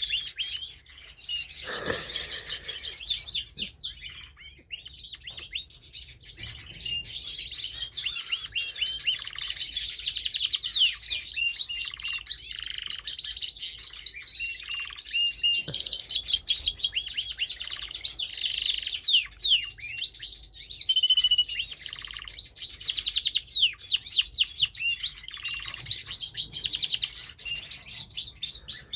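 Domestic canary singing a long, fast warbling song of rapid trills and high chirps, broken by a few short pauses.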